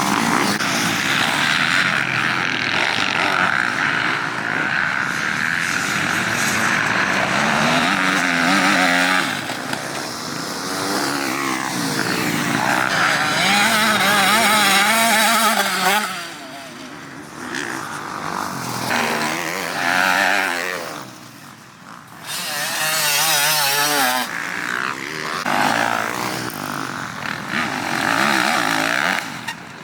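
Motocross dirt bike engines racing, revving up and down through the gears as the bikes ride the track. It is loudest in the first half and drops away for a few seconds about two-thirds of the way through.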